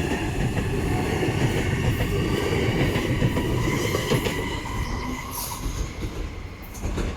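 Sydney Trains Waratah electric train pulling out fast, loud wheel and running noise with high steady whining tones over it, fading away over the last couple of seconds.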